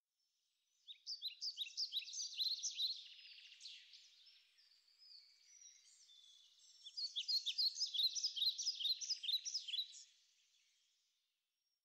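Small birds chirping and twittering in quick, high notes: two busy spells of rapid chirps with a thinner stretch between, fading out near the end.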